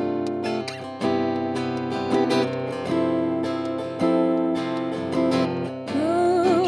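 Acoustic guitar strumming the introduction to a slow song, with a chord struck about once a second. Near the end a voice comes in on a long, wavering note.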